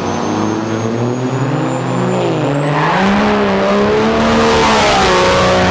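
Turbo-diesel drag-racing truck engine running hard, its pitch wavering up and down and the sound growing louder and rougher over the second half, with a thin high whistle slowly rising in pitch.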